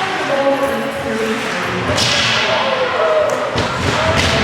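Ice hockey game sounds: shouting voices over arena noise, with a sharp crack about two seconds in and a few more knocks near the end.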